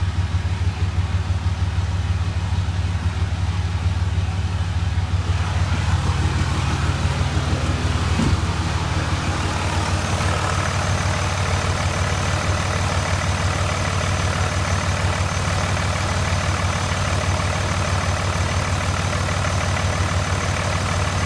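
Dodge Cummins 5.9-litre inline-six turbo diesel idling steadily on a run test, its rapid firing pulses even throughout. A faint high-pitched whine joins about ten seconds in.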